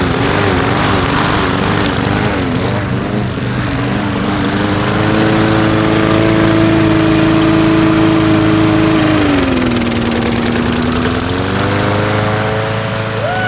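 Briggs & Stratton lawn mower engine running steadily. A higher tone over the engine wavers, holds, dips in pitch about ten seconds in, then climbs back.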